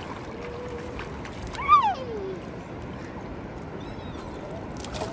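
Steady wash of beach surf and wind, with a child's voice rising and falling once briefly about two seconds in.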